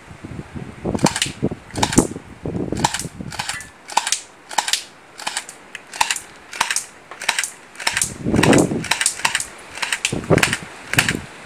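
Stunt Studios electric airsoft pistol firing a string of about twenty single shots at an uneven pace of roughly two a second, each a sharp snap.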